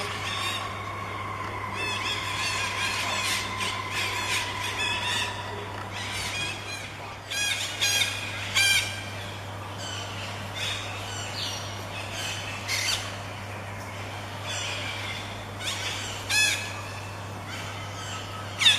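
Parrots chirping and squawking in a flock, many short calls overlapping, with a few loud, harsh squawks standing out.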